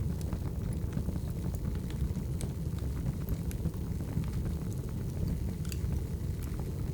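Wood fire burning: a steady low rumble of the flames with scattered small crackles and pops of the burning logs.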